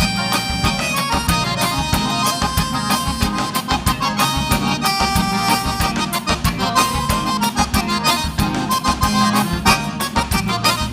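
Live gaúcho dance band playing an instrumental passage: accordion (gaita) melody over bass and a fast, steady drum beat.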